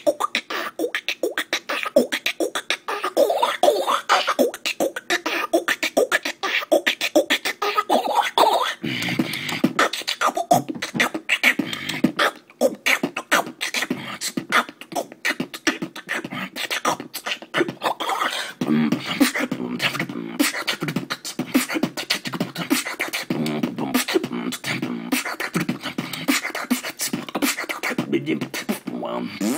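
A person beatboxing: a fast, unbroken run of mouth clicks and pops mixed with hummed, voiced tones, heavier and lower in the second half.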